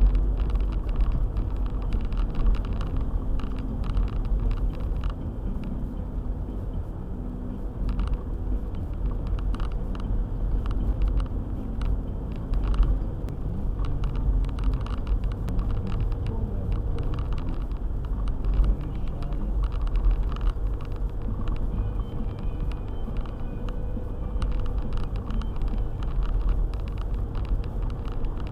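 Car driving on a snowy road: a steady low rumble of engine and tyres, with frequent irregular clicks and knocks.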